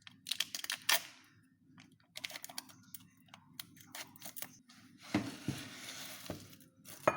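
Kitchen handling sounds: a run of light clicks and knocks, then about a second of rustling, tearing noise past the middle, and a sharp click near the end.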